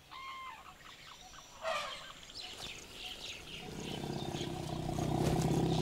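Birds calling in a forest: scattered chirps and whistled notes. About halfway through, a low steady drone swells in beneath them.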